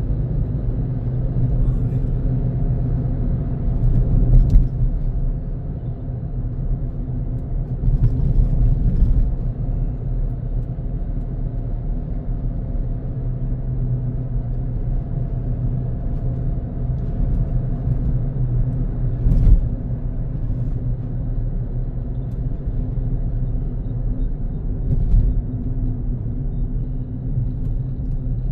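Car driving on a road: a steady low rumble of engine and tyre noise, with a few brief knocks along the way.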